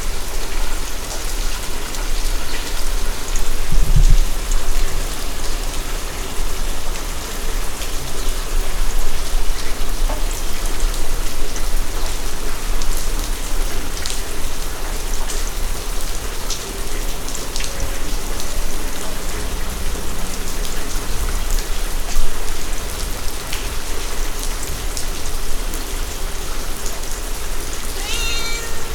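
Heavy rain falling steadily: an even hiss with scattered sharp drop impacts. A brief faint high-pitched call comes near the end.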